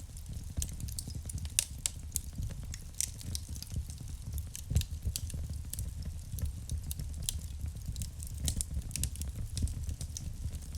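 Wood fire burning in a fireplace: irregular crackling with sharp pops over a steady low rumble of the flames, one louder pop near the middle.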